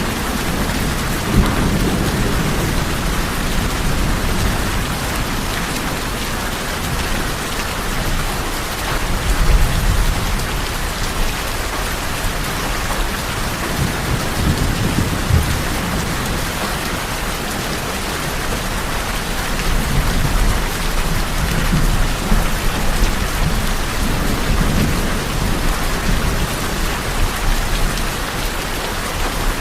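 Steady rain falling on a tin roof, with low rolling thunder that swells up several times.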